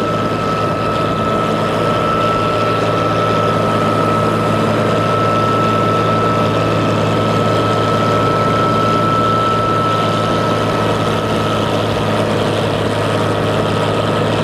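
Ferry boat's engine running steadily under way, a low even hum with a thin steady whine above it and the rush of water and wind.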